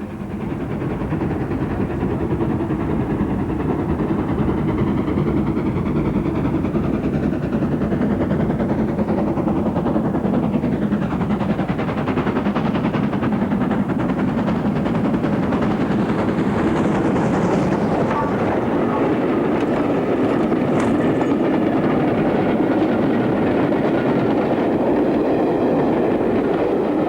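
LNER Thompson B1 4-6-0 steam locomotive running with its train, a steady loud rumble of engine and wheels that builds over the first second, with a sweep in pitch around ten seconds in.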